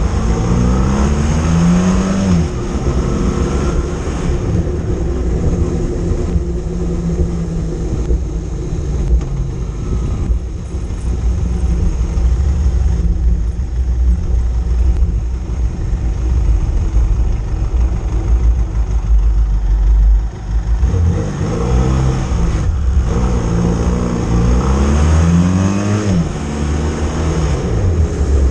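Motorcycle engine under way, revving up through the gears near the start and again repeatedly in the last third, its pitch climbing and dropping back at each shift, and running steadily in between over a heavy low rumble.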